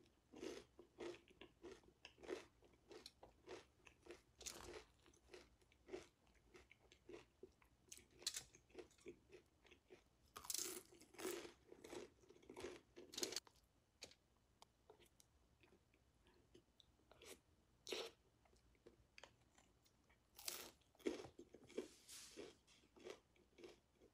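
Close-up mouth sounds of a person biting and chewing churros dipped in ice cream: quiet, crisp crunches in irregular runs, thickest about ten to thirteen seconds in and again around twenty-one seconds.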